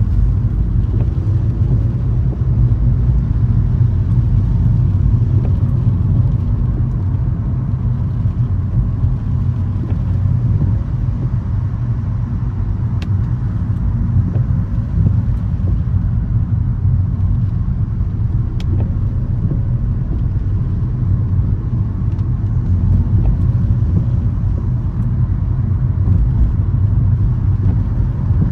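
A car driving: steady low road and engine rumble with no let-up, with a couple of faint ticks in the middle.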